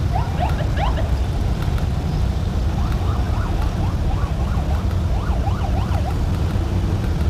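A large pack of motorcycles riding past, their engines making a loud, dense low rumble, with many short rising and falling whoops above it.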